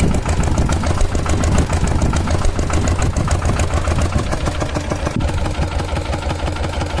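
An engine running steadily with a rapid, even putt-putt beat.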